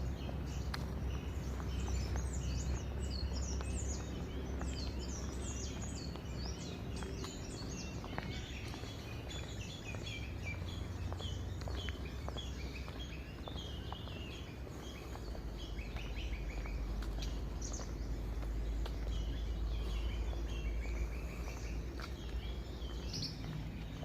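Many small birds chirping and calling, short high chirps overlapping throughout, over a steady low rumble.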